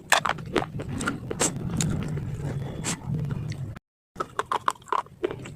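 Crunchy food being bitten and chewed close to the microphone: a run of sharp crunches over a low chewing rumble, breaking off abruptly for a moment near the end before the crunching resumes.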